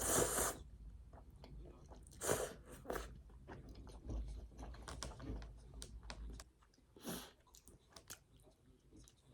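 Someone biting and chewing crunchy food close to the microphone: a few loud crunches, at the start, twice a couple of seconds in and once again near the end, with quieter chewing between.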